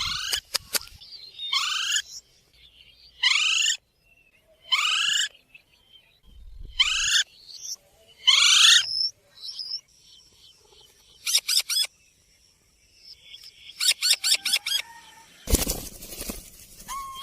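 Green ringneck parrot giving about six short, high calls that sweep in pitch, roughly a second and a half apart, followed by quicker runs of chattering notes near the end.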